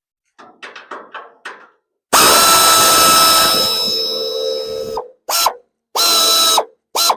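A few quick clicks, then a handheld power drill spins steadily for about three seconds and winds down. It gives three short trigger bursts near the end, typical of backing out body-panel bolts.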